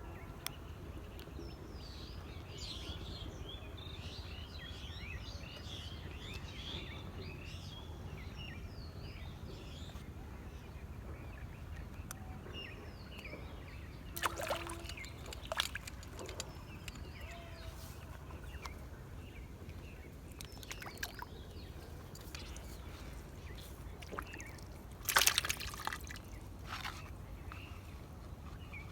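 Water splashing briefly twice, about halfway through and more loudly near the end, over a steady low outdoor rumble with birds chirping.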